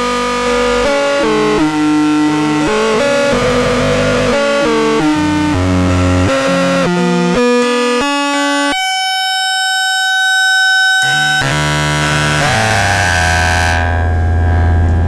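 Handmade three-oscillator drone/noise synth playing buzzy, harmonic-rich tones that jump abruptly in pitch every fraction of a second. Around the middle the low end drops out, leaving a thin high tone for about two seconds, then the pitches glide over a low drone near the end.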